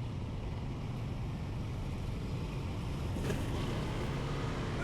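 Motorcycle running at low speed, a steady low rumble mixed with wind noise on the rider's microphone, with a brief hiss about three seconds in.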